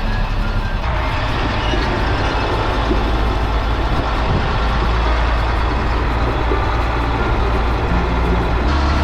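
LMTV military truck's diesel engine running, with road noise: a steady low drone under a dense rumble. The sound changes abruptly about a second in and again near the end.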